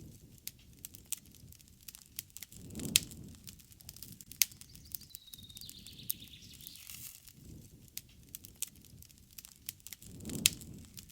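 Wood campfire crackling with frequent sharp pops, two louder pops with a low rush of flame about three seconds in and near the end. A bird calls once in the middle.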